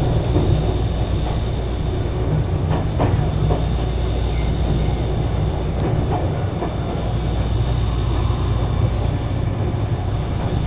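Steady running noise of a Nagano Electric Railway train heard from inside the car as it travels between stations, a low rumble with a few wheel clicks over the rail joints about three seconds in.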